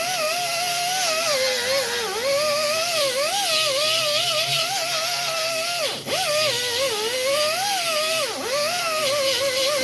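High-speed grinder whining as it grinds out a crack in body filler, its pitch wavering constantly and sagging twice under heavier load.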